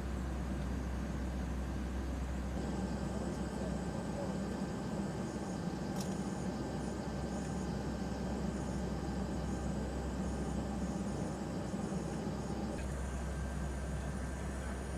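Steady cabin drone of a P-8 Poseidon jet aircraft in flight, with a low hum that shifts in level about two and a half seconds in and again near the end, and a single click about six seconds in.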